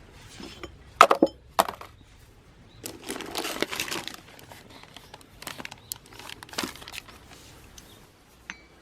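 Metal transmission parts being handled: sharp clinks and knocks, with a longer scraping rustle about three seconds in and lighter clicks after it.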